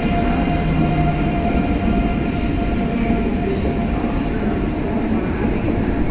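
Deutsche Bahn ICE 3 (class 406) electric high-speed train rolling past along the platform as it departs, with a steady rumble of its running gear. A faint high whine fades out about a second in.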